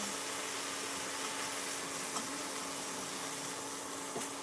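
Armadillo leg meat frying in a hot pan, a steady sizzle from the fat caramelizing, over a low steady hum.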